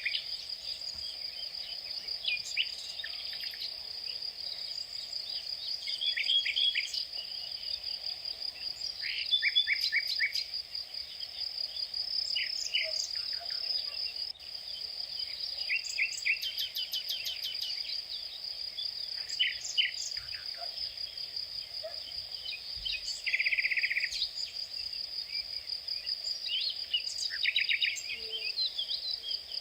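Steady, high-pitched insect trill with birds chirping over it in short calls and quick series of chirps.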